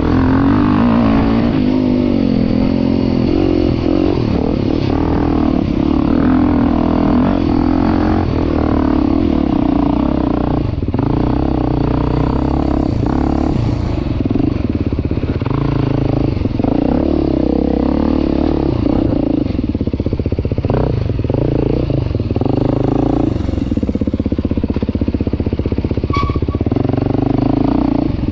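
2023 Beta 390 Race Edition dirt bike's four-stroke single-cylinder engine running under load, its revs rising and falling constantly as it is ridden. A few short knocks come through.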